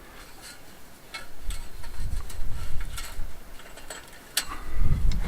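Light metallic clicks and ticks at irregular intervals from wire ties being threaded through wire fencing and twisted tight around a post with tie-in pliers, with a sharper click near the end. Low rumbling bumps from handling sit under it in the middle and near the end.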